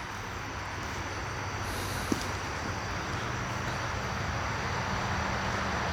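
An engine running steadily in the background, slowly growing louder, with a single short click about two seconds in.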